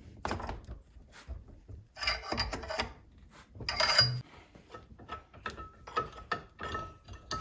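Metal being worked at a workbench: irregular scraping and rasping in bursts, with scattered sharp clicks and knocks.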